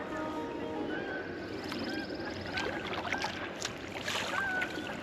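Kayak paddling: paddle blades dipping and splashing in the water, with several short high chirps spaced about a second apart.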